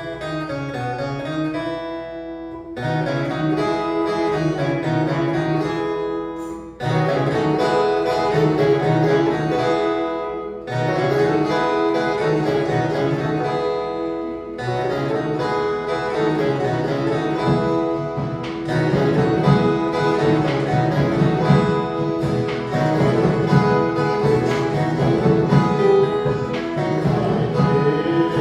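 An ensemble of violas caipiras, the Brazilian ten-string guitars, playing a Christmas tune in short phrases with brief breaks between them, growing fuller in the second half.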